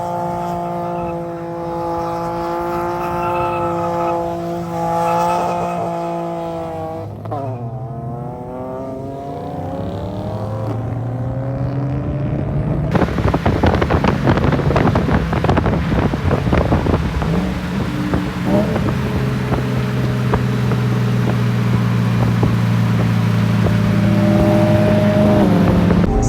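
Car engine running at a steady pitch, then dropping and climbing again about seven seconds in, as if through a gear change. From about halfway through it turns louder and rougher, with a crackling under the steady engine note.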